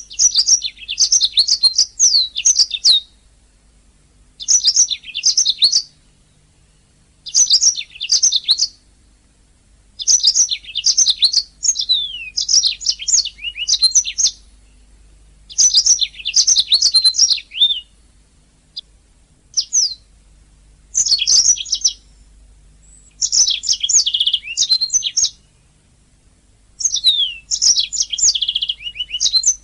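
Domestic canary singing: phrases of rapid chirps, trills and quick downward-sliding notes, each lasting one to three seconds, with short pauses between them.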